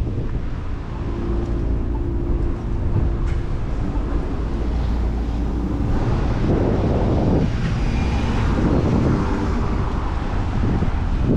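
Wind rumbling on the microphone of a moving bicycle, with city street traffic around it. A steady hum sounds through the first half, and passing vehicles swell up twice in the second half.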